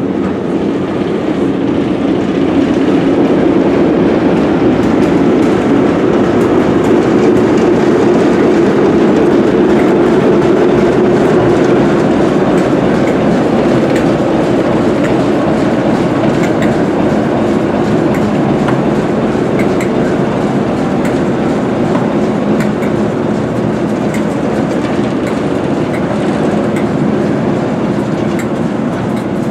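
Passenger coaches rolling slowly past with wheels clicking over the rail joints, while the rear Class 08 diesel shunter's English Electric six-cylinder engine runs with a steady hum as it passes and draws away.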